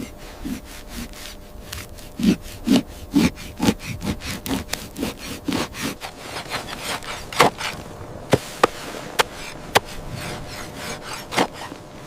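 Rhythmic sawing strokes, about two a second. About eight seconds in they give way to a series of sharp clicks.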